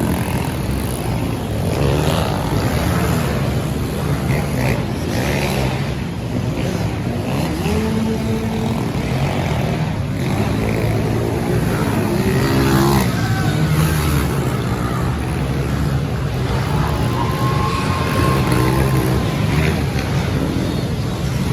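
Small youth motocross bikes racing, their engines revving up and down again and again.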